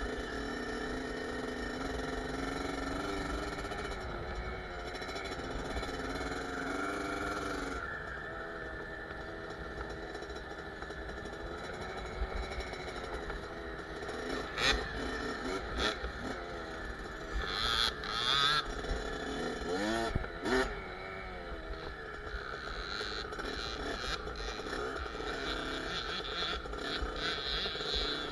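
Kawasaki KX65 two-stroke motocross bike's engine being ridden, its pitch rising and falling as the throttle is opened and closed. A few sharp knocks come around the middle.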